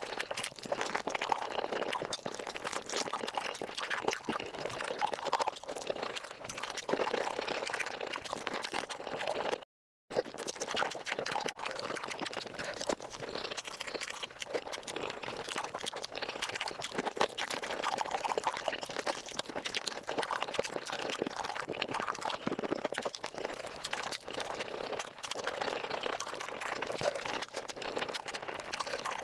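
Close-miked, sped-up eating sounds of chicken feet being chewed: a fast, dense stream of wet smacking, sucking and small crunches. The sound drops out for a moment just under ten seconds in.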